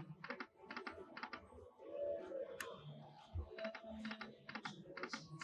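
Lightning Link slot machine sounds during play: a run of quick, quiet clicks in small clusters, with short soft electronic tones between them.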